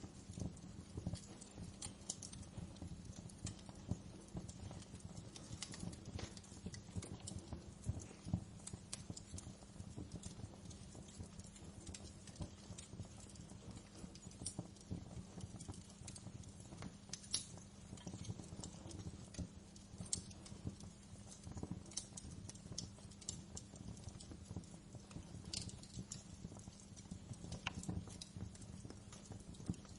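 Wood fire crackling in a fireplace: dense, irregular pops and snaps, a few sharper ones standing out, over a low steady hum.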